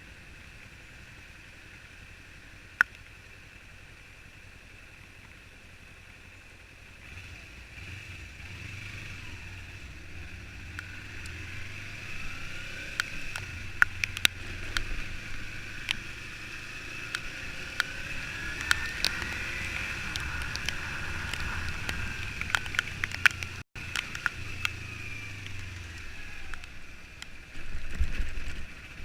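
Road noise of a vehicle on the move, heard through an on-board camera's own microphone: a steady hiss with a low engine hum that grows louder about seven seconds in. Scattered sharp clicks run through it.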